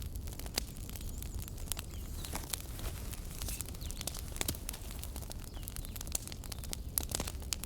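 Wood fire burning in a fireplace and crackling: irregular sharp pops and snaps over a low, steady rumble.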